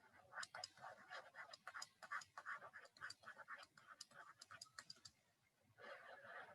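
Faint scratching of handwriting: quick, uneven strokes with light clicks, then one longer continuous stroke near the end.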